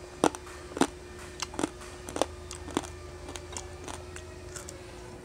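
A person chewing crispy deep-fried pork belly (bagnet) with the mouth closed: sharp crunches of the crackling skin about twice a second, growing softer after about three seconds, over a faint steady hum.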